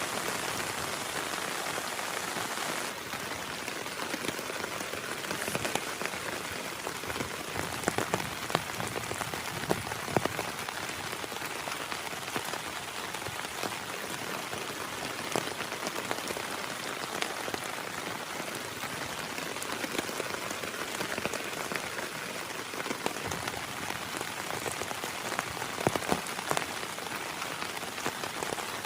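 Heavy rain falling steadily, with many sharp drop hits close to the microphone scattered through it and a few louder ones.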